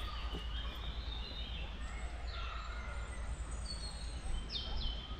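Birds singing and calling, with short chirps and trills and a few quick down-sweeping notes near the end, over a steady low rumble.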